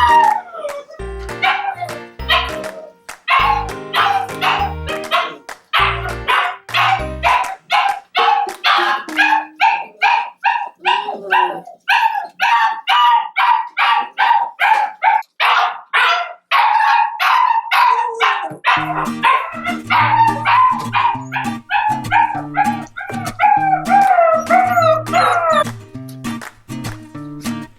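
An Australian Shepherd mix puppy barking and yipping over and over, about two short barks a second, under background music. Near the end the calls slide up and down in pitch, more like whining.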